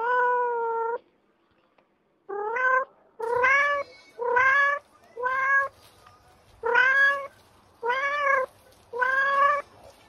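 A kitten meowing repeatedly: one long meow first, then after a short pause seven shorter meows, about one a second.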